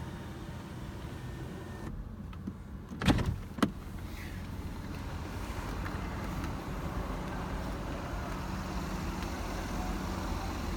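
Electric motor of a Mercedes-Benz S500 Coupe's panoramic roof running after a one-touch press: a steady mechanical hum, two sharp clicks about three seconds in, then a steady whir that grows slowly louder.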